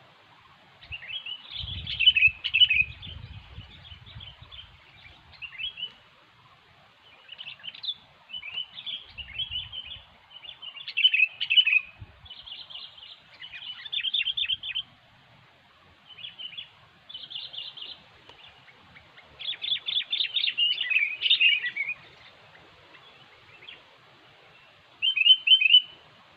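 Sooty-headed bulbuls giving bursts of short, bubbly chirping calls, with a dense run of rapid notes about twenty seconds in. There is a brief low rumble about two seconds in and again near ten seconds.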